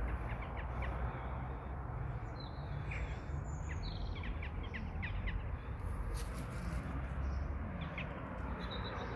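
Birds calling: short, sharp chirps come off and on, with a held high note near the end, over a steady low rumble.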